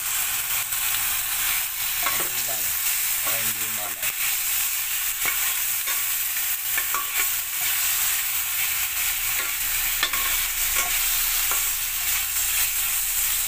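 Chicken liver, ginger, onion and garlic sizzling steadily in hot oil in a stainless steel pan, with a metal spatula scraping and clicking against the pan as it stirs.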